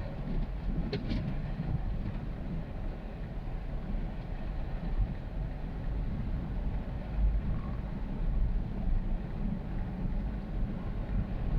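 Ford F-350 Super Duty pickup with a truck camper driving over a sandy dirt road: a steady low rumble of engine and tyres, with a brief click about a second in.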